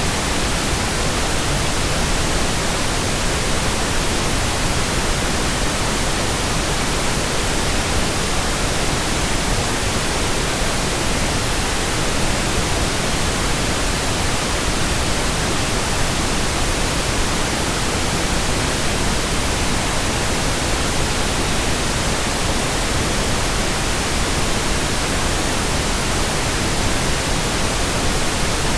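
Steady, unchanging synthetic white noise: an even hiss spread across the whole range from low rumble to high treble, with no pauses or changes.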